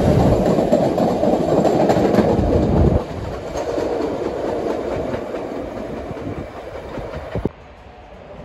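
A CTA 'L' rapid-transit train running past close by, with wheels clattering over the rail joints. About three seconds in the sound drops suddenly, then fades as the train pulls away, and it falls off sharply again near the end.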